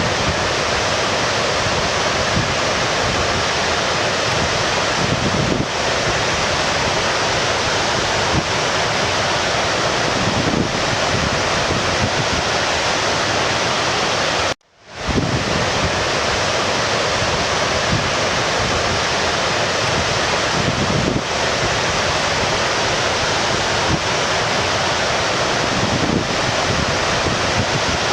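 Brook water rushing steadily. About 15 seconds in, the sound cuts out for an instant and fades back in.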